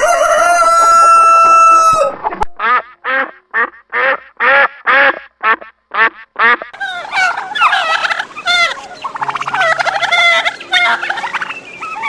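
Domestic fowl calling. It opens with one long held call lasting about two seconds, then a run of about ten short, evenly spaced calls. From about seven seconds in, many birds call at once in an overlapping flock chorus.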